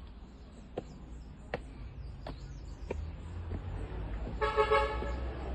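A vehicle horn gives one short toot near the end, over a steady low rumble. A few sharp clicks come earlier, spaced evenly.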